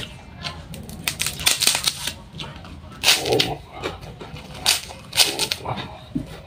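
Crunching and chewing of crisp kerupuk crackers, close to the microphone, in several bursts of crackle.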